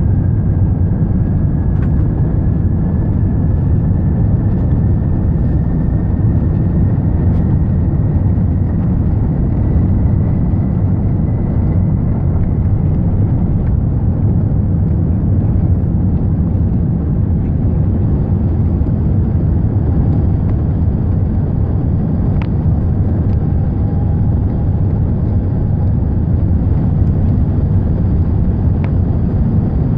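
Airbus A380 taking off: a loud, steady, heavy rumble of engines and airframe, with a faint whine that rises slowly in pitch over the first dozen seconds.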